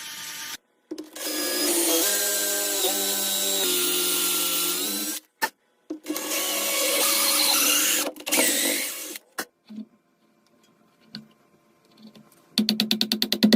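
Power tool working wood in short edited bursts that start and stop abruptly, its pitch stepping down several times in the first burst; a quieter stretch with a few small knocks follows, and near the end a fast, even pulsing begins.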